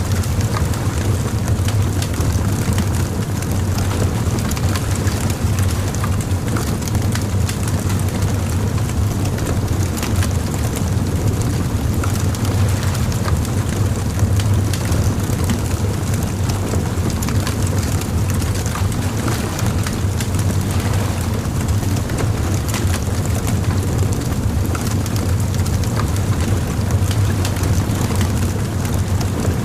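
Bonfire crackling, with frequent small pops and snaps scattered throughout over a steady low rumble.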